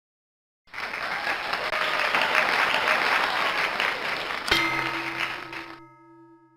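Applause starts suddenly and goes on for about five seconds. About four and a half seconds in, a held musical note or chord comes in over it and fades as the applause dies away.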